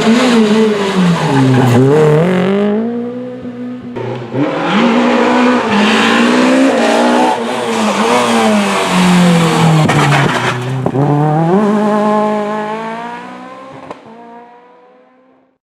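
Rally car engine revving hard on a special stage. Its pitch drops and climbs again about three times, as the car brakes and accelerates through the corners. Near the end a long rising note fades away as the car drives off.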